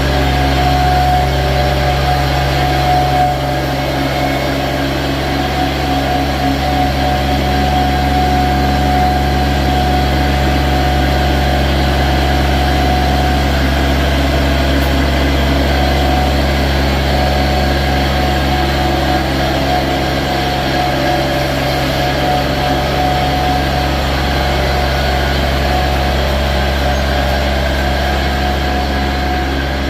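Steady engine or machine drone with a constant low hum and a fixed higher tone, unchanging throughout.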